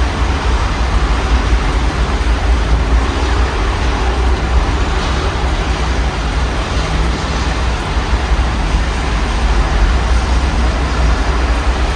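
Steady rain heard through an open window, an even hiss with a constant low rumble of city traffic beneath it.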